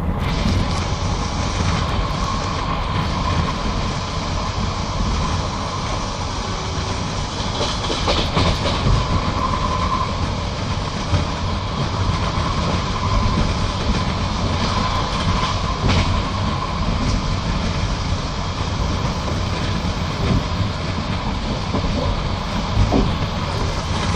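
Russian passenger railway carriage riding along the line, heard from inside: a steady low rumble of wheels on the track, with now and then a sharp click of the wheels over rail joints and a faint steady whine.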